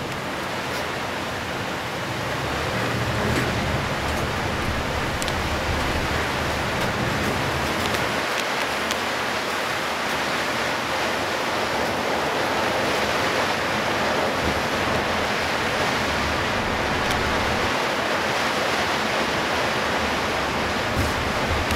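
A steady wash of heavy rain and water spray from the tyres on a drenched road, heard from inside a moving bus, with a low road and engine rumble underneath.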